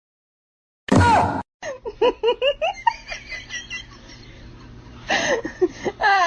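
A loud, short cry about a second in, then a person laughing in quick, short bursts, with another run of laughter near the end.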